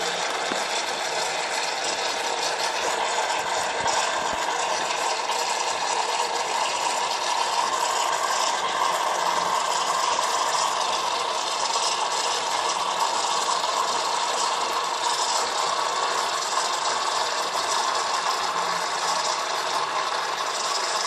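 Espresso machine's vibratory pump running with a steady rattling buzz.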